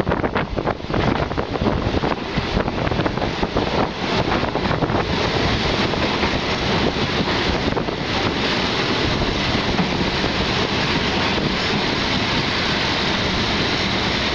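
Wind buffeting the microphone at the open window of a moving passenger train, over the running noise of the coach on the rails. The buffeting is gusty for about the first five seconds, then the noise settles to a steadier level.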